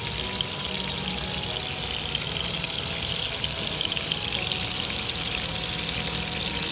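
Marinated prawns sizzling in hot oil in a frying pan: a steady crackling sizzle.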